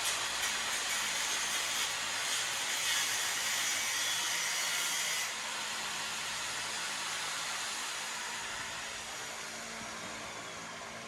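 Steady hissing noise, strongest in the high range, that steps down in level about five seconds in and then fades slightly.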